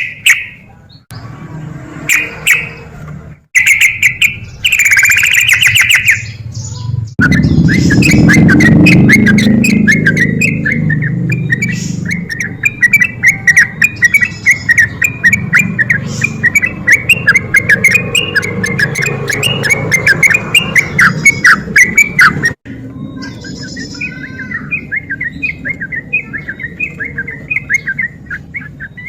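Yellow-vented bulbul (trucukan) singing a loud, rapid run of chattering, bubbling notes, broken by abrupt cuts where takes are spliced together.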